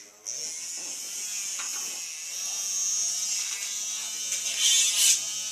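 Homemade sander-cutter driven by a small dynamo motor, starting up about a quarter second in and running with a high buzzing whine whose pitch wavers, louder for a moment shortly before the end.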